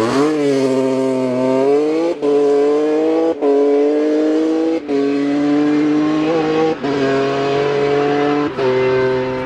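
Rally car engine pulling hard through the gears, with five quick upshifts heard as brief cuts in the engine note about a second or so apart.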